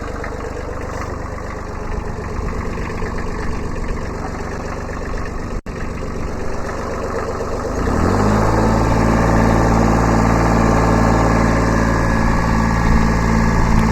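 Kubota B7100 subcompact tractor's three-cylinder diesel engine running at low speed, then revving up about eight seconds in and holding steady at a higher, louder speed.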